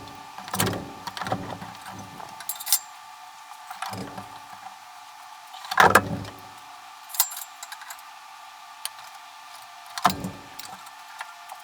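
Scattered metallic clanks and rattles in about half a dozen separate bursts, the loudest about six seconds in, as an engine is worked into the car's engine bay on a hoist. A steady high hum runs underneath.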